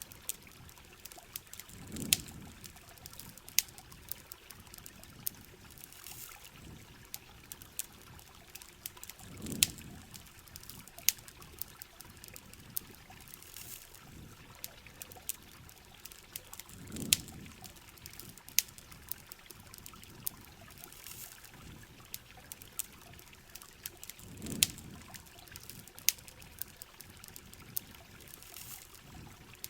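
Ambience of steady heavy rain with the sharp pops and crackles of a campfire, and a low swell that comes back about every seven to eight seconds.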